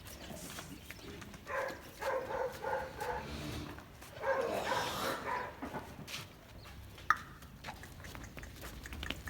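A dog barking in two quick runs of barks, the second a little after the first.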